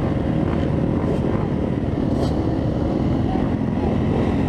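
Dirt bike engine running at a fairly steady pitch, with wind rushing over the microphone.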